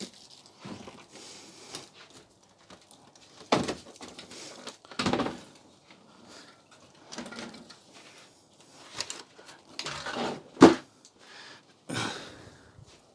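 Irregular knocks, scuffs and clatter of objects being handled and set down, with several louder thuds.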